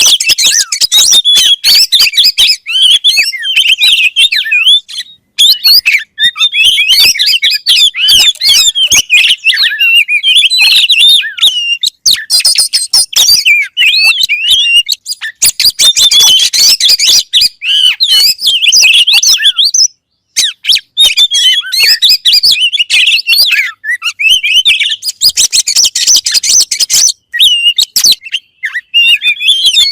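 Oriental magpie-robin (kacer) singing loud, fast, varied song of chirps and whistles in long phrases with short breaks between them.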